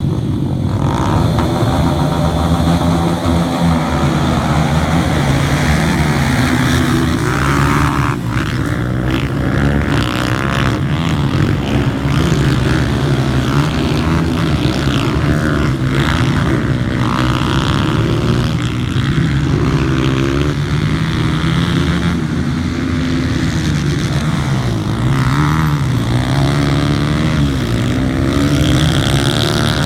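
Pit bike engine running hard, its pitch rising and falling over and over as it revs up and eases off.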